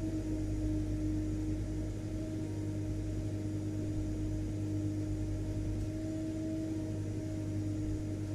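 Vacuum cleaner motor running steadily, a constant hum with a whooshing airflow noise underneath.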